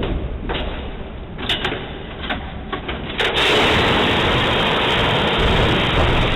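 MD-80 emergency evacuation slide deploying: a few clatters, then about three seconds in a sudden, loud, steady rushing hiss as the slide inflates.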